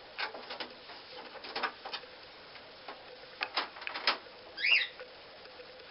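A pet parrot gives one short chirp about three-quarters of the way through, amid a scatter of light clicks and taps.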